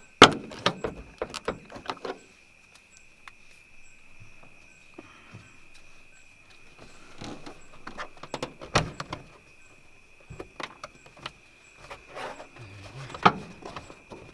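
Plastic interior trim panels and clips on a car being pried and worked loose: scattered clicks, knocks and scraping, the sharpest knocks about nine and thirteen seconds in. A steady high tone sits underneath.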